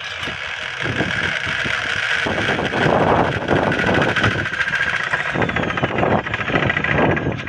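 Small homemade rotating wheel device, a so-called magnetic gravity motor, spinning fast with a dense, rapid rattle and a steady high whine.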